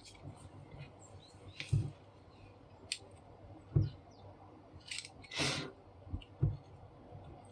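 Scattered clicks and three dull knocks from hands and tools working on a paper laminator's plastic drive housing to open it, with a short scrape a little past halfway.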